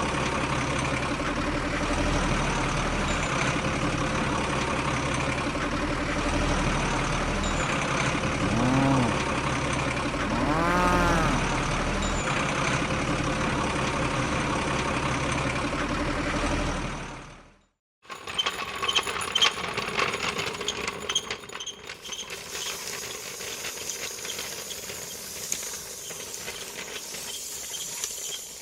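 A tractor-type engine running steadily, with two short calls that rise and fall in pitch about nine and eleven seconds in. It cuts off suddenly and gives way to a quieter run of rapid clicking and whirring from a small mechanism.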